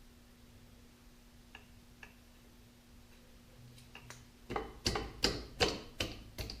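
A few faint clicks, then about a second and a half of quick sharp knocks, about five in a row at nearly three a second, from tools and parts being handled during clutch reassembly on a compact tractor. A steady low hum runs underneath.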